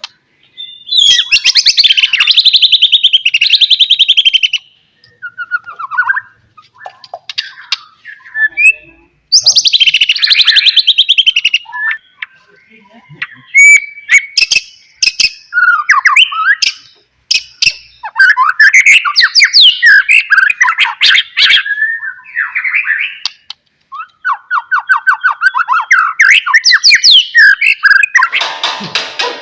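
White-rumped shama (murai batu) singing loudly in bursts: fast, rich chattering phrases and clear whistled notes, broken by short pauses, with a harsh, noisy burst near the end.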